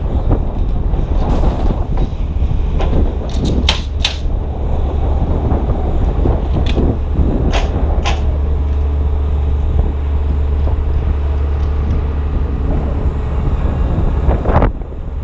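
Strong wind buffeting the camera's microphone as a steady low rumble, with several sharp knocks from the truss work, the loudest a few seconds in and around eight seconds in. The rumble drops away just before the end.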